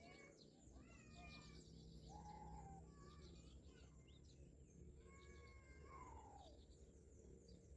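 Faint, short animal calls that slide in pitch, recurring every second or two, over a low steady hum.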